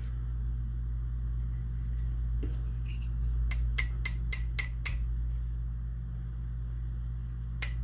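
Small hammer tapping a pin into a side-by-side shotgun's action: a run of six quick light metal taps about halfway through, and another run starting at the end, over a steady low hum.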